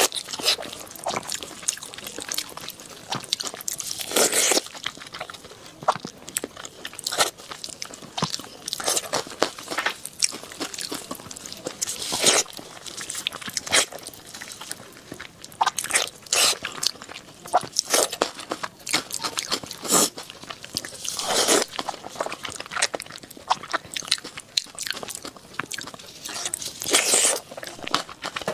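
Close-miked eating of braised pork knuckle: irregular wet chewing, biting and lip-smacking, with a few louder smacks scattered through.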